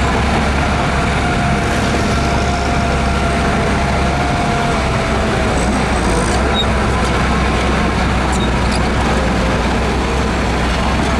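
Heavy earthmoving machinery running steadily: a deep diesel engine hum with a thin, even whine over it.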